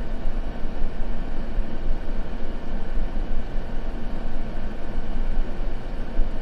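Steady, continuous white noise for sleep, a dense hiss weighted toward the low end with no changes or events.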